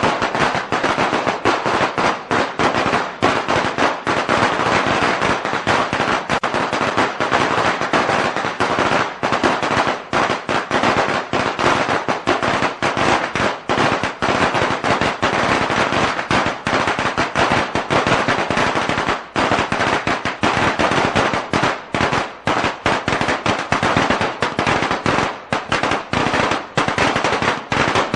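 A long string of firecrackers going off in a rapid, unbroken stream of sharp bangs.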